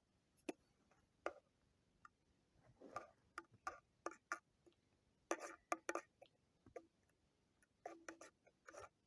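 Irregular sharp clicks and short clattering knocks, spaced unevenly over a quiet background.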